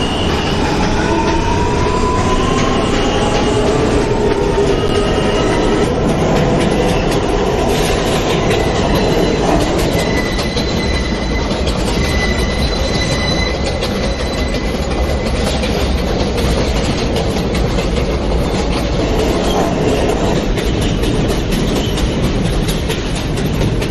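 New York City subway train running between stations, heard from inside the car: a steady rumble of wheels on rail. A motor whine rises in pitch in the first few seconds as the train gathers speed, and a thin high wheel squeal sounds around the middle.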